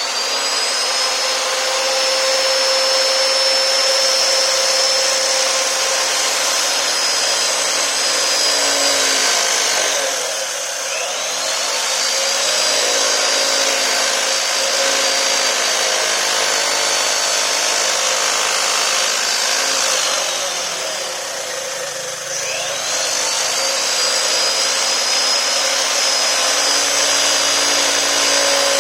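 High-speed handheld power tool motor running with a steady high whine. Twice it slows and then speeds back up, the second slowdown longer than the first.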